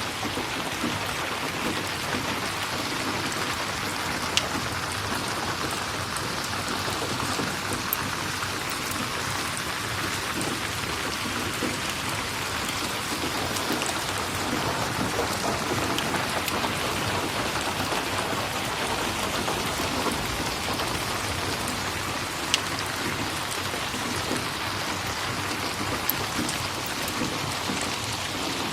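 Steady rain falling, an even hiss of drops, with a few sharp isolated ticks scattered through it.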